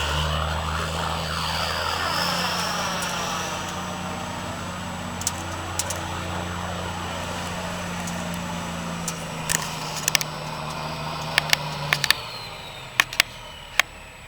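Semi truck's diesel engine held at steady revs while the truck spins donuts, its sound sweeping as the truck circles. The engine note drops away about twelve seconds in, with a scatter of sharp clicks through the second half.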